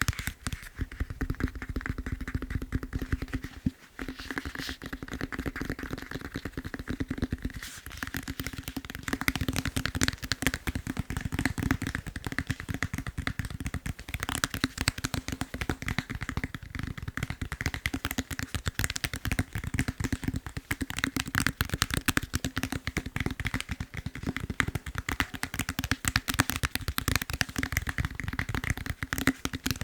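Fast tapping on a foam massage roller, a dense run of quick taps with brief breaks about four and eight seconds in.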